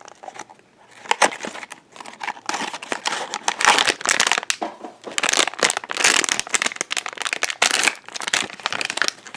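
Blind-box packaging of a collectible mini figure being opened by hand: irregular crinkling, crumpling and tearing, sparse at first and becoming continuous about two and a half seconds in.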